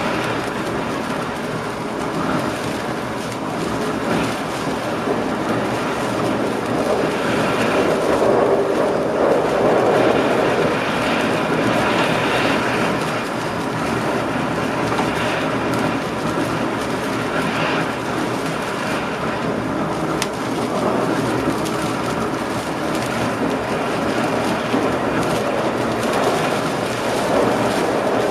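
Passenger train running along the line, heard from inside the driver's cab: a steady rumble of wheels on rails that swells a little partway through, with faint clicks over the track.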